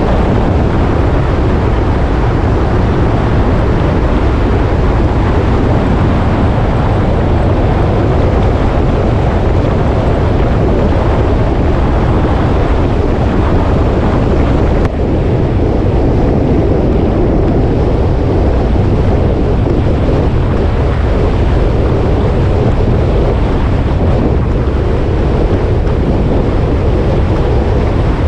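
Motorcycle riding at road speed, its engine rumble buried under steady wind rushing over the microphone, with a brief dip about halfway through.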